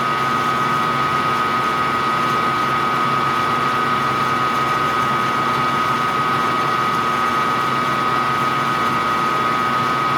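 Machine tool's motor and spindle running steadily, with a constant high-pitched whine over a lower hum, during a small drilling operation.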